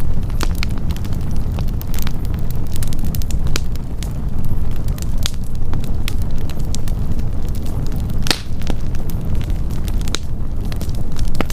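Wood campfire burning with frequent sharp crackles and pops over a steady low rumble, one louder pop about eight seconds in.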